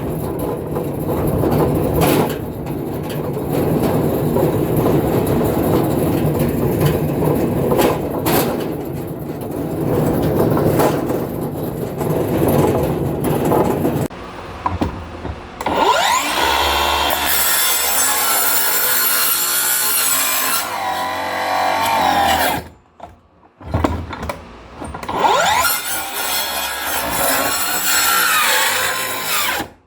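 A saw cutting through wood floor material: a steady rasping cut for about the first half. It then turns into a sound whose pitch rises and falls, with brief pauses about three-quarters of the way through.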